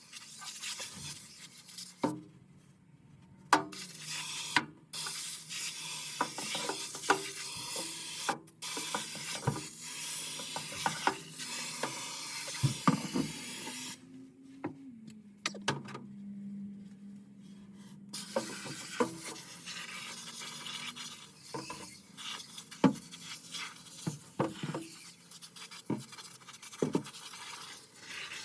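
Scrubbing and scraping with many small clicks and knocks, over a low steady hum.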